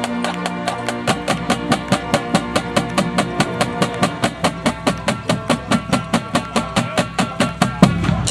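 Drum corps percussion playing a steady run of strikes, about four a second, with pitched mallet notes ringing over them. The loudest hit comes near the end, and the playing cuts off suddenly.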